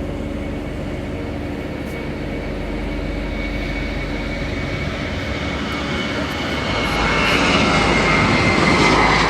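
Aircraft engines running with a steady high whine over a dense rush of noise, growing louder over the last three seconds.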